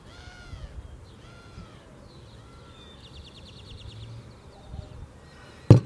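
Outdoor birds calling: a few short, arching calls in the first two seconds, then a fast trilled series of notes. One sharp knock, the loudest sound, comes just before the end.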